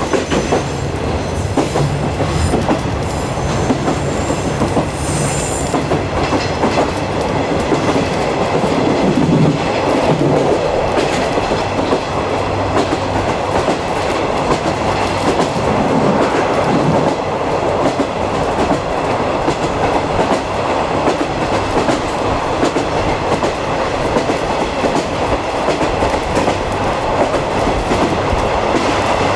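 A 50-series passenger coach running along the track, heard from inside the coach: a steady rumble of the wheels with clickety-clack over the rail joints.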